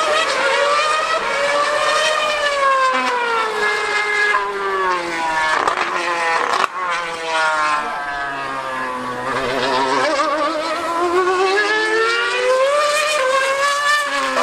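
2013 Formula 1 car's high-revving V8 engine screaming, its pitch climbing and falling several times as it accelerates and slows, with a brief break in the note about halfway through.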